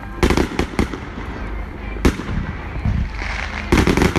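Fireworks going off in sharp bangs: a few in quick succession near the start, a single one about two seconds in, and a rapid burst of several near the end.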